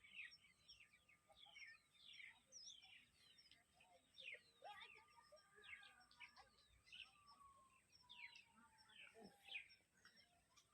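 Faint outdoor chorus of small birds chirping: many short, quick downward-sweeping calls, several a second, over a faint steady high tone.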